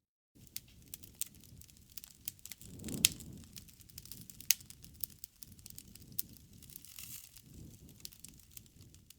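Campfire crackling: a low rumble of burning wood with irregular sharp pops and snaps, the loudest about three and four and a half seconds in.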